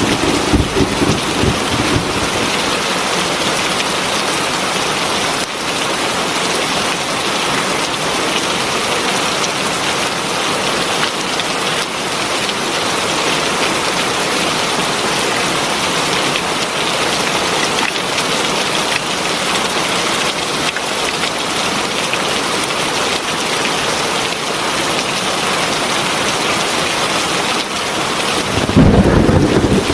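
Heavy rain falling steadily. A low thunder rumble dies away over the first two seconds, and another rumble starts about a second before the end.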